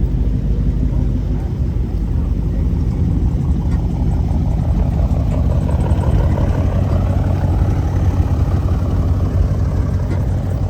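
Car engine running with a steady low rumble. From about halfway in, a tone rises gradually over it.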